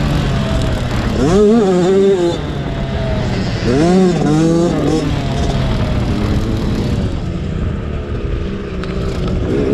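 Motocross dirt bikes revving over a steady low engine hum: the pitch sweeps up and falls back twice in the first few seconds, then the engines run quieter.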